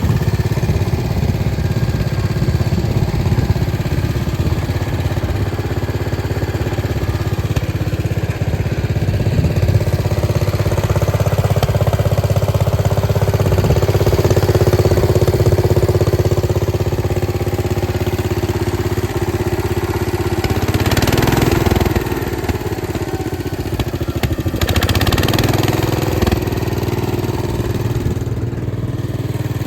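Case 222 lawn tractor engine running steadily, its note shifting briefly about two-thirds of the way in.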